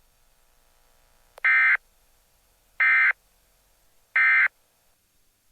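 NOAA Weather Radio SAME data bursts: three short identical buzzy digital chirps, evenly spaced about a second and a half apart. This is the end-of-message code that closes an emergency alert broadcast.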